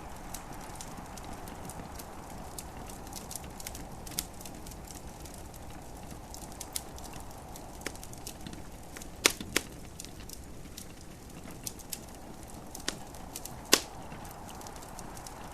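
Wood fire crackling: irregular sharp pops and snaps, the loudest a pair about two-thirds of the way in and one near the end, over a steady soft hiss of gentle rain.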